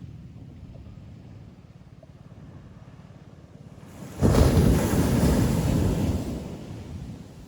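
Ocean surf on a beach: a low, steady wash, then a wave breaks about four seconds in with a sudden loud rush that lasts about two seconds and fades away.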